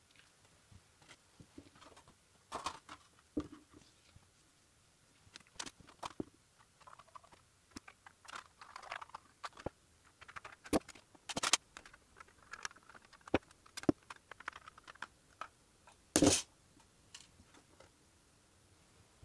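Irregular clicks, taps and short scrapes of small hard objects being handled, with a louder knock about 16 seconds in.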